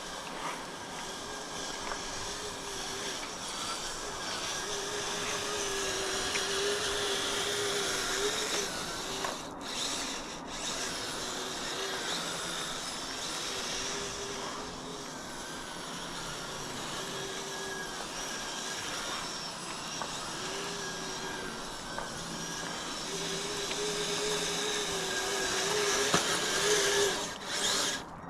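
Kyosho Blizzard RC snow vehicle driving over snow: its dual Traxxas 380 electric motors whining and its metal tracks running, the pitch wavering with throttle, with two brief drops about ten seconds in.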